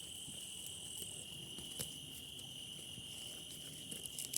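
Crickets singing in a steady, unbroken high trill, with a second, higher insect trill that stops about a second in.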